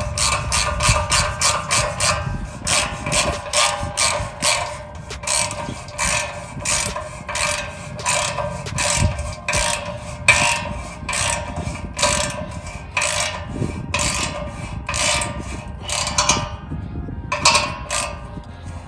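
Hand ratchet wrench clicking in quick runs of strokes with brief pauses, as bolts are tightened on an exhaust clamp.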